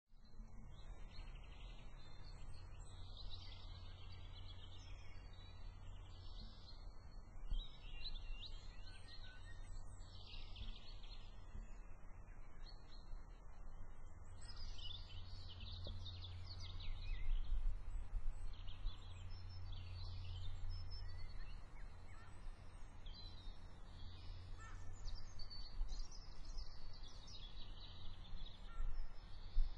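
Birds chirping in repeated clusters of quick, high twitters every second or two, busier in the second half, over a steady low rumble.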